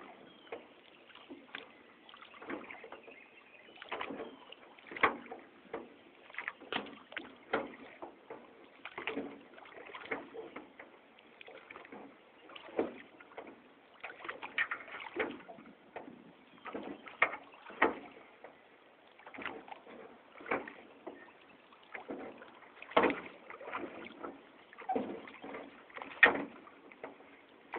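Paddles dipping and splashing in floodwater and knocking against a small boat's hull, in an irregular run of strokes, with a few louder knocks.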